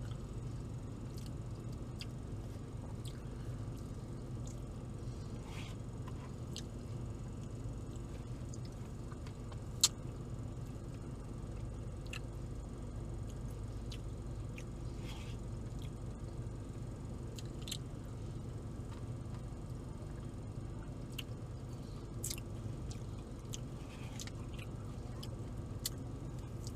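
A man chewing and biting food, with scattered small wet mouth clicks and one sharper click about ten seconds in, over a steady low hum.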